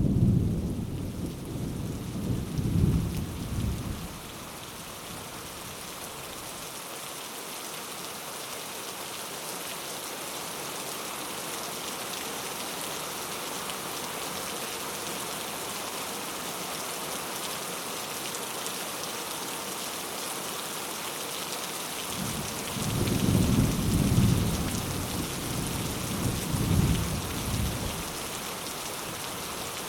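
Steady rain with rolling thunder. A rumble of thunder dies away in the first few seconds, and another rolls in about three quarters of the way through and lasts several seconds.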